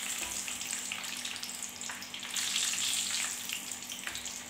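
Chicken nuggets deep-frying in hot oil in a pan, a steady crackling sizzle, while a spoon stirs through the oil and lifts them out.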